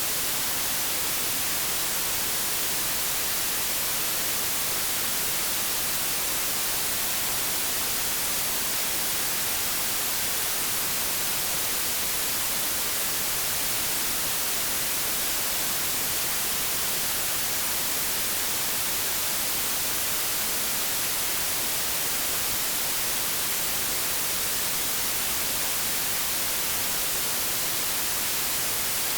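Steady white noise static, an even hiss with no changes, brightest in the high end, like a television tuned to no station.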